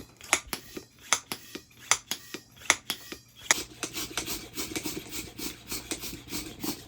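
Hand pump inflating a rubber dodgeball, its strokes making repeated short rasps that quicken about halfway through.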